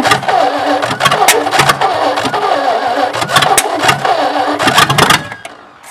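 Carbureted V8 engine cranking and sputtering, firing unevenly with frequent sharp pops. It cuts off just past five seconds in.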